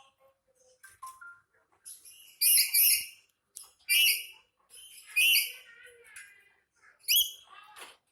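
Black-capped lory screeching: a series of about five loud, shrill calls with quieter chatter between, the calls of an angry bird.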